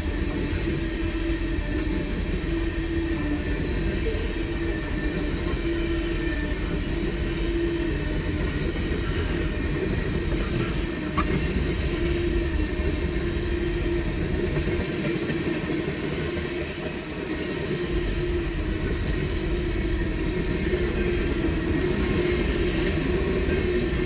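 Freight train rolling slowly past, a steady rumble of wheels and cars on the rails with a humming tone that comes and goes.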